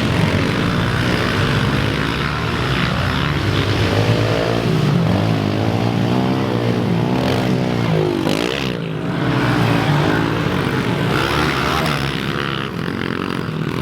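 Several pit bikes' small single-cylinder four-stroke engines revving up and down as they ride the track. Their pitches rise and fall, overlap and cross, with one sweeping down sharply around the middle.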